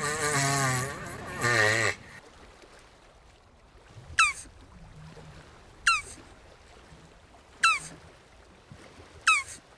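Jabuti tortoise calling: a wavering, bleat-like call in the first two seconds. Then come four short, sharp chirps that fall in pitch, evenly spaced about every second and a half.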